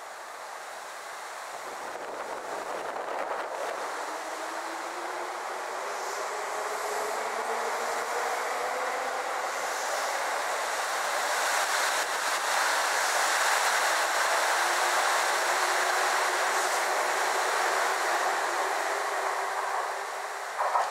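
JR Kyushu 787 series electric limited express train moving past, with a whine that rises in pitch in the first half as it gathers speed. A steady rumble of wheels on rails builds to its loudest in the second half, and a short sharp knock comes just before the end.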